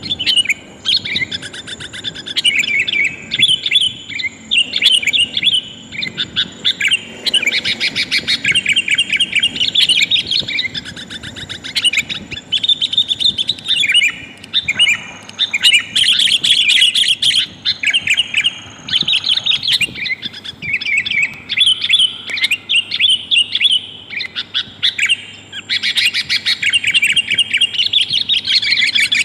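Sooty-headed bulbul (kutilang) calls: a female calling for a male, as used to lure wild birds. Bright, rapid chirping phrases follow one another almost without pause.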